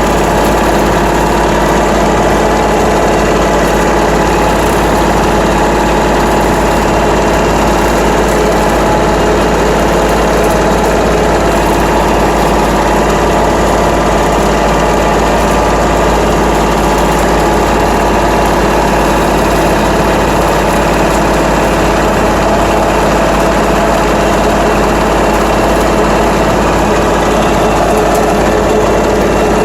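Tractor engine running steadily while mowing brush with a rotary cutter (bush hog), with an even, unbroken drone and no breaks.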